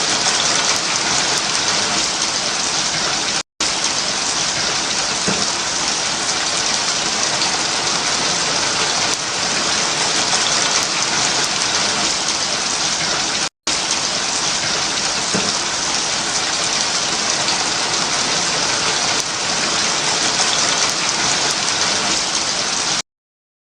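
Steady rain, an even hiss of falling drops. It drops out briefly twice, about three and a half seconds in and again near fourteen seconds, and cuts off abruptly shortly before the end.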